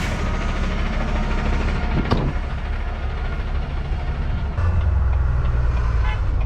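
Semi truck's diesel engine running steadily, with a short sharp click about two seconds in. About halfway through, the engine's low hum steps up and gets louder.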